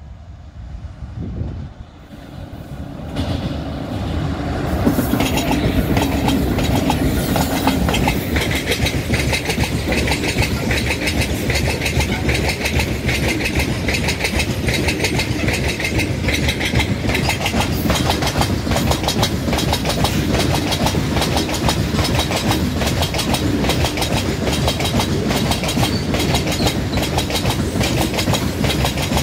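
Freight train headed by two WAG-5 electric locomotives passing at high speed. It grows louder over the first few seconds as it approaches, then a long string of open freight wagons rumbles past with a rapid, steady clickety-clack of wheels over rail joints.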